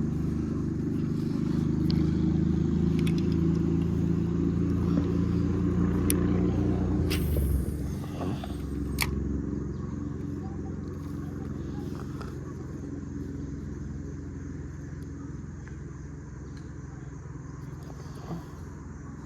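An engine running steadily, louder for the first seven seconds or so and then lower, with a few sharp clicks about six to nine seconds in.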